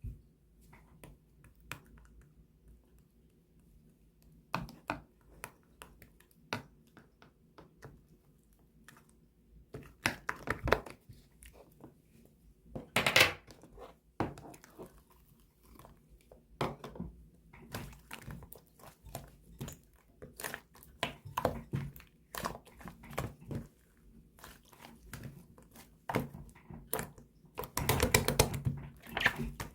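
Cream slime being squished, pressed and stretched by hand: irregular sticky clicks, crackles and small pops, with louder bursts of squishing now and then.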